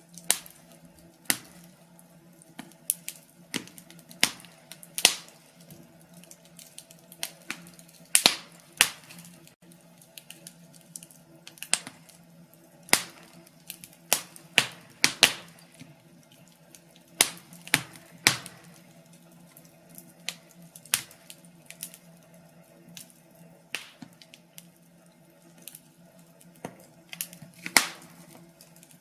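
Wood fire crackling in a fireplace: sharp, irregular pops and snaps coming at uneven intervals, over a faint steady hum.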